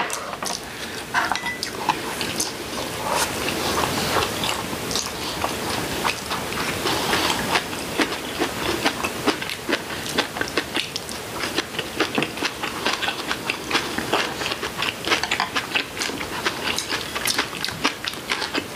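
Close-up eating sounds: two people biting and chewing seasoned vegetable side dishes and pan-fried tofu, a steady run of many small crunches and clicks.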